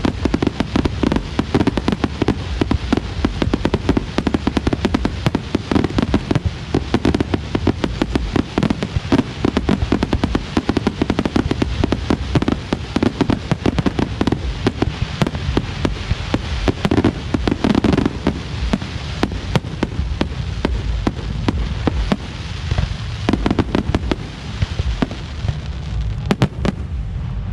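Fireworks display: a dense, continuous barrage of sharp bangs and crackles with heavy low booms. It thins out slightly in the last few seconds.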